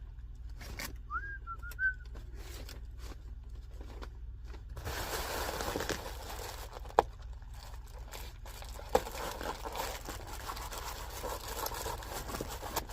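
Hands rubbing and smoothing tape down onto ductwork, a long crinkling, rustling sound with two sharp clicks partway through. A brief gliding whistle comes about a second in, over a steady low hum.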